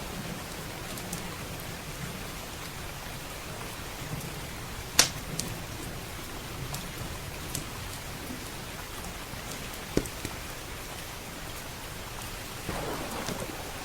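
Steady rain with scattered sharp crackles and pops from a wood fire, the loudest pop about five seconds in and another about ten seconds in. A low rumble of thunder comes in near the end.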